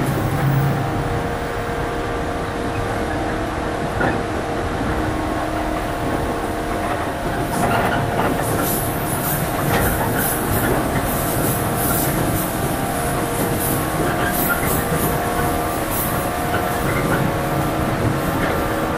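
JR 115 series electric train running at speed, heard from inside the passenger car: a steady rumble of wheels on rail with a constant hum of motor and gear tones, and a few short high squeaks in the second half.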